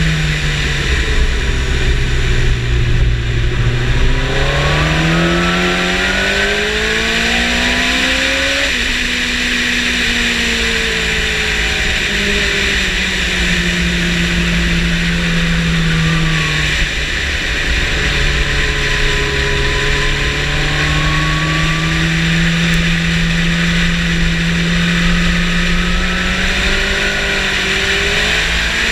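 Yamaha motorcycle engine at speed. The revs sink low in the first few seconds, then climb steadily and drop sharply at an upshift about eight and a half seconds in, and the engine holds fairly steady high revs with small dips and rises for the rest. A steady rush of wind noise runs over it.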